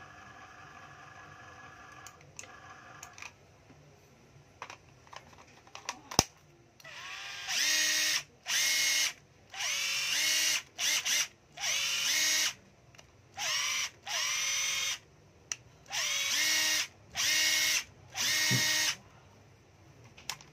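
14.4 V cordless drill-driver run in about ten short bursts on the trigger, the motor whining up to speed and winding down each time. A few light clicks come before the first run, one of them sharp.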